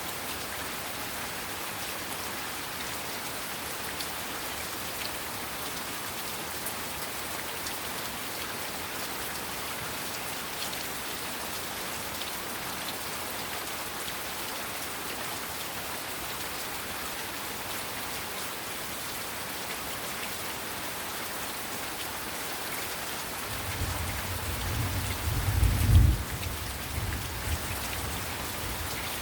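Heavy rain falling steadily in an even hiss. Near the end a low rumble of thunder builds, peaks sharply and then dies away.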